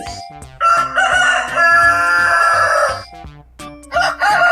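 Rooster crowing cock-a-doodle-doo twice: one long crow, then a second one starting near the end, over light background music.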